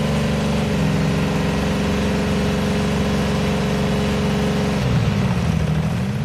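Lamborghini Miura SV's 3.9-litre V12 engine running loud and even at steady revs; near the end the revs dip and climb back up.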